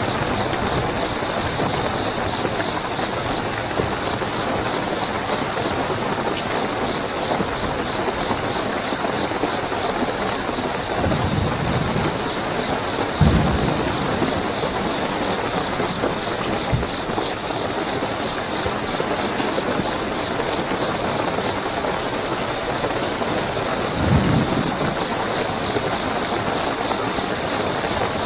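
Steady heavy rainfall with night crickets trilling steadily and high-pitched behind it. A few brief low thumps come through the rain, the loudest about halfway through and another near the end.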